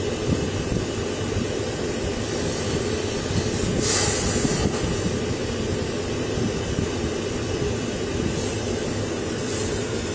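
Steady low rumble with a hiss over it, and a short louder burst of hiss about four seconds in.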